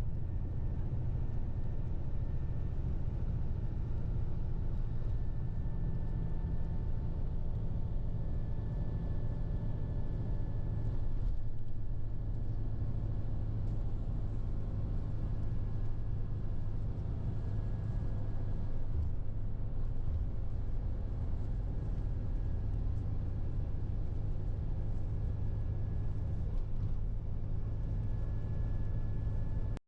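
Steady low rumble of a moving tour bus heard from inside the cabin: engine and road noise.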